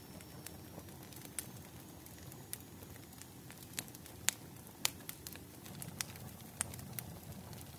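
Burning firewood crackling: irregular sharp pops and snaps, a few louder ones in the middle, over a low steady rumble of the fire.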